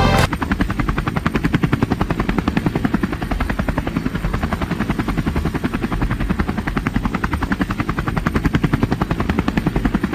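Helicopter rotor chopping in a fast, steady beat, starting as the music cuts off.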